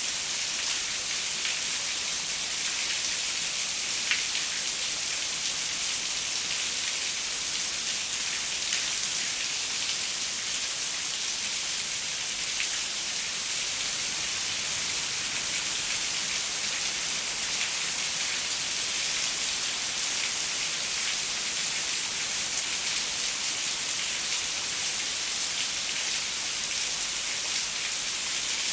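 Steady rain falling on a window, a constant high hiss with scattered individual drops ticking against the glass.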